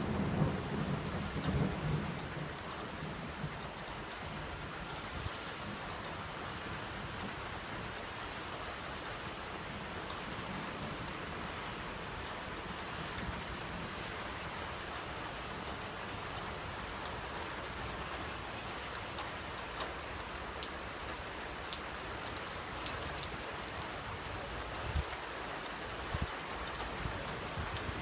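Steady rain falling, with a roll of thunder rumbling away over the first two seconds; after that only the even hiss of rain.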